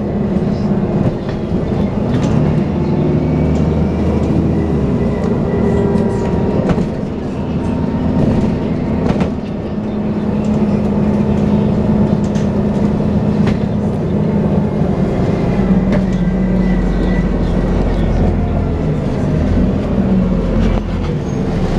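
Dennis Trident 2 double-decker bus with Alexander Enviro 400 body running in service, its drivetrain making the whining 'hoover' sound, with the pitch shifting as it speeds up and slows. Scattered rattles and knocks from the bus run through it.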